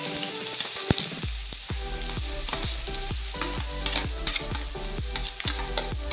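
Chopped onions poured into hot cooking oil in a deep pan, sizzling steadily with scattered crackles and pops.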